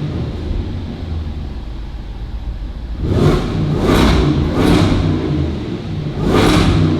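Land Rover Defender 110's 5.0-litre supercharged V8 idling with a deep exhaust rumble, blipped four times. Three quick revs come close together about three to five seconds in, and a fourth near the end.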